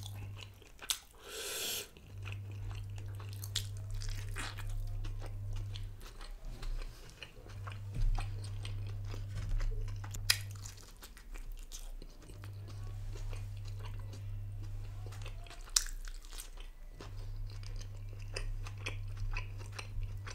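Close-up eating sounds of a pan-fried mutton kothey momo being bitten and chewed, with scattered sharp clicks and a short harsh tearing noise about a second and a half in. A low hum comes and goes every few seconds underneath.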